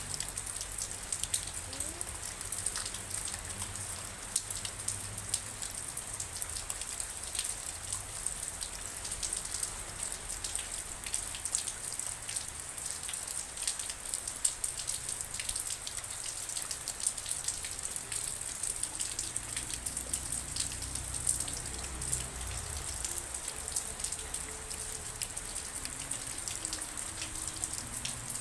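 Steady rain, a constant hiss with many individual drops striking close by as sharp little ticks.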